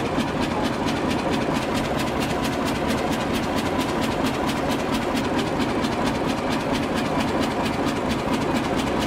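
Deutz MKH260 single-cylinder industrial diesel engine running steadily at low speed, with a rapid, even mechanical clatter of several knocks a second.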